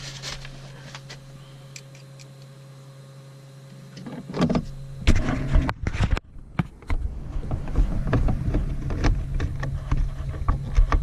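Clicks and knocks of plastic dash trim and screws being handled during refitting, over a steady low hum. It is fairly quiet at first, with louder clattering from about four seconds in.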